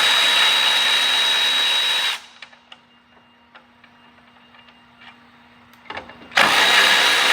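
A cordless power driver spinning nuts off a bolted assembly in two runs: a steady high whine over a rough whirr for about two seconds, then, after a quiet stretch with a few light clicks of parts being handled, a second run.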